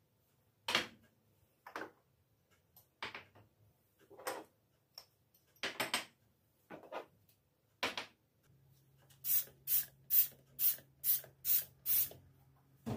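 Kitchen items handled with scattered knocks and rubbing strokes, then a trigger spray bottle squirted seven times in quick succession, about twice a second, over a faint low hum.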